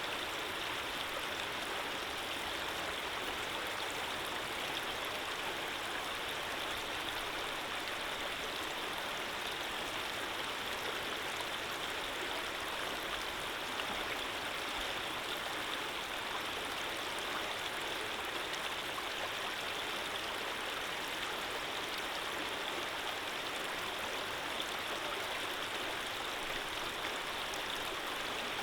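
Running water: a steady, even rush of a flowing stream.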